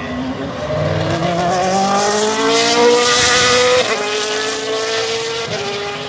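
Racing engine accelerating hard, its pitch climbing then dropping at a gear change about four seconds in and again shortly before the end.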